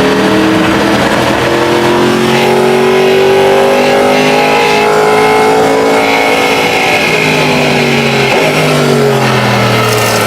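Sauber Mercedes C9 Group C race car's twin-turbo V8 running hard under load. Its pitch climbs slowly for about six seconds, then falls, with a shift about eight seconds in.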